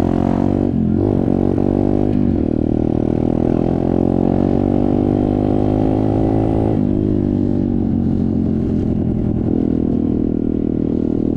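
Dirt bike engine running under way. Its pitch dips and picks up again about one and two seconds in, climbs slowly, then drops sharply about seven seconds in.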